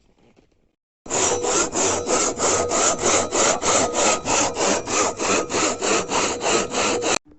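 Hand saw cutting through a fallen tree trunk with fast, even strokes, about three or four a second. It starts abruptly about a second in and cuts off suddenly near the end.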